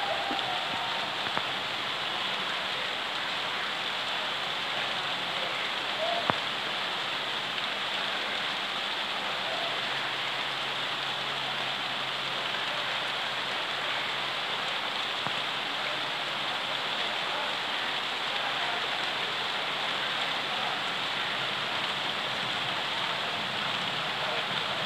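Steady rain falling, an even hiss without let-up, with one sharp tap about six seconds in.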